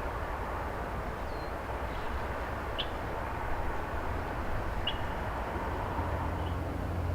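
Steady low engine rumble of an excavator working some way off, with short high bird chirps every second or two. A deeper engine hum swells near the end.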